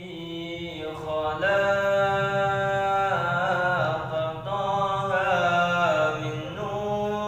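A voice chanting long, held notes of an Arabic devotional song (sholawat), sliding in pitch between notes, over a steady low drone. No drum strokes are heard yet.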